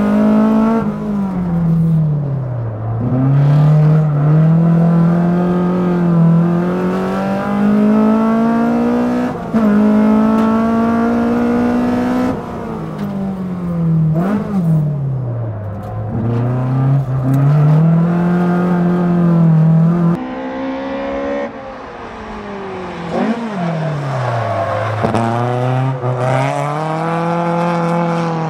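Toyota AE86's swapped-in 2.0-litre 3S-GE four-cylinder engine revved hard on track: its pitch climbs through the gears, drops with each shift and swoops down into corners before rising again on the throttle. About two-thirds of the way through the sound turns duller, heard from outside the car as it slides through a corner.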